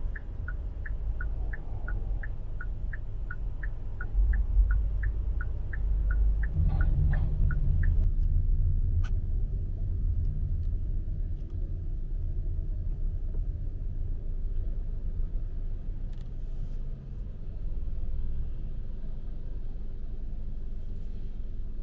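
Low rumble of street traffic. Over the first eight seconds or so it is joined by a rapid, evenly repeated beeping, about three beeps a second, which stops suddenly.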